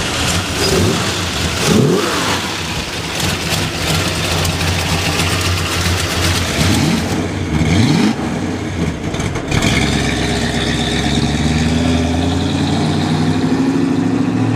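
1969 Dodge Charger R/T's 440 cubic-inch V8 through its new dual exhaust, revved a few times while standing. About ten seconds in it settles into a steady engine note that climbs slowly as the car pulls away at low speed.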